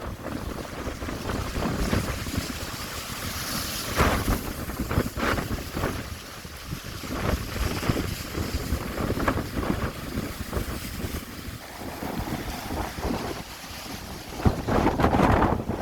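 Strong gusting wind buffeting the microphone, a rough rumbling rush that swells and eases in irregular gusts.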